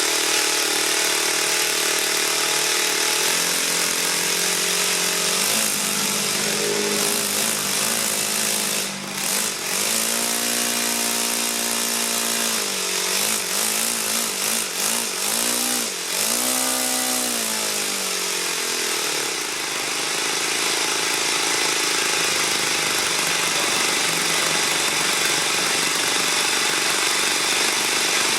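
Enya 80 four-stroke single-cylinder glow model engine running, its revs swinging up and down several times through the middle as the throttle is worked, then settling back to a steady lower speed.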